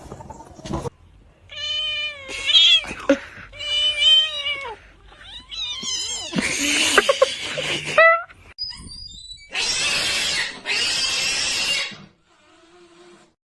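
Domestic cat yowling: several drawn-out meows that waver in pitch, then two long noisy hiss-like sounds near the end.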